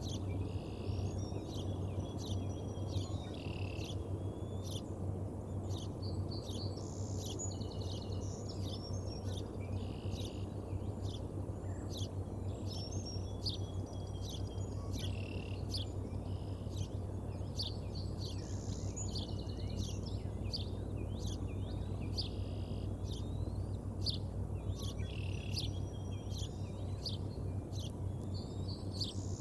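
Wild birds singing repeated trilled phrases again and again, over a steady low hum and background noise.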